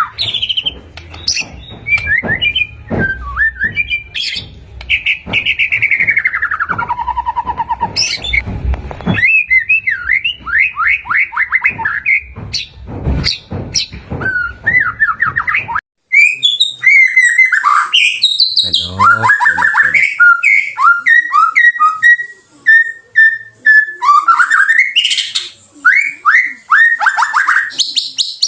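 White-rumped shama (murai batu) singing a varied song of loud whistles, rapid trills and falling notes. The recording cuts abruptly about halfway through: the song carries on, but the low background rumble under the first half is gone.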